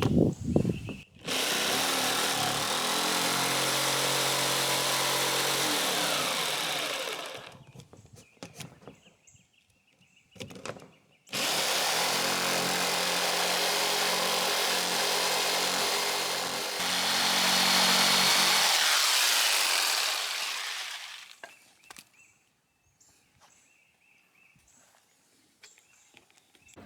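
Electric power saw running in two long cuts, one of about six seconds starting a second in and a longer one of about nine seconds starting near the middle, each with a steady motor hum under the cutting noise; the second run winds down at the end.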